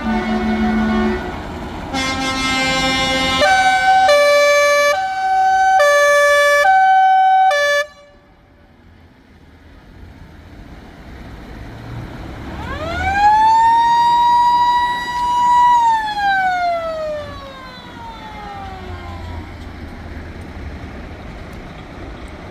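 Truck air horns: a chord blast, then a two-tone horn switching between a high and a low pitch about once a second for some four seconds, cut off sharply. Later a siren winds up, holds its pitch for a few seconds and slowly winds down.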